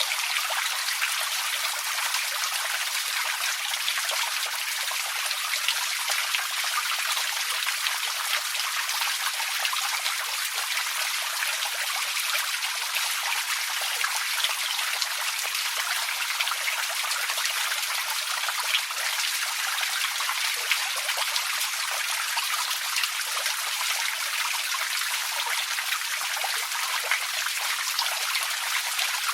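Steady rain: a dense, even patter of many small drops, with no low rumble.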